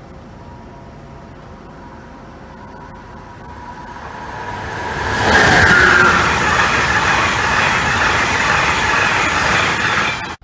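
Amtrak passenger train of silver cars approaching and passing at speed: a rush of wheels on rail and moving air that builds over a few seconds, is loudest about five to six seconds in, stays loud while the cars go by, and cuts off suddenly near the end.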